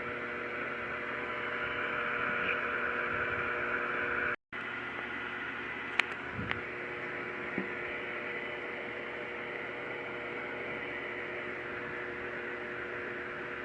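Steady hum and hiss from a radio receiver between transmissions. It cuts out completely for a moment about four seconds in, and there is a single click a little later.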